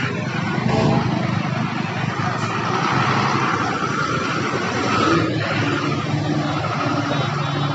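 Ashok Leyland 3718 truck's diesel engine running steadily, a constant low drone.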